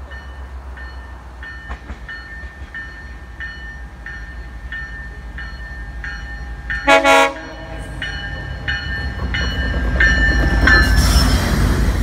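GO Transit diesel locomotive approaching with its bell ringing about one and a half strokes a second. About seven seconds in comes a short, loud toot of its horn. The engine's rumble then swells as the train passes close by, loudest near the end.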